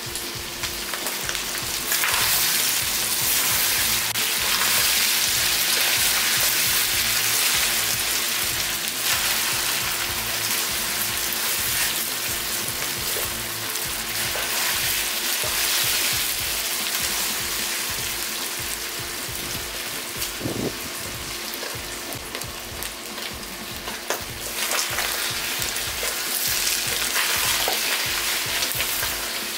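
Chicken feet, onion and lemongrass sizzling in a hot wok over a propane burner while being stirred with a wooden spatula. The sizzle is a dense steady hiss that swells louder about two seconds in and again near the end.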